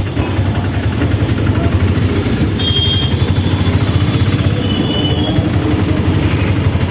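Small engine of a motorised auto-rickshaw running steadily with a rapid throb.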